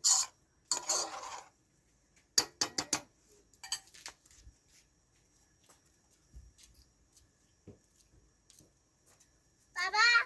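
Metal dishes and utensils clattering and clinking in a few scattered bursts, with several quick sharp clinks. A short pitched call near the end.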